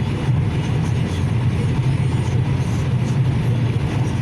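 Steady low rumble of a car travelling at highway speed, heard from inside the cabin: road and engine noise.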